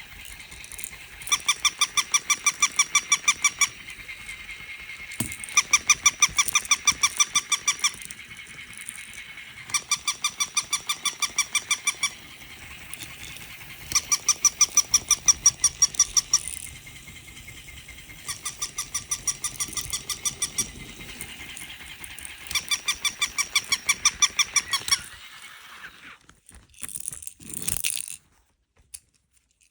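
A dog chomping a squeaky toy, making rapid runs of high squeaks several times a second. They come in about six bursts of a couple of seconds each, with short pauses between them. The last few seconds are quieter, with scattered rustling.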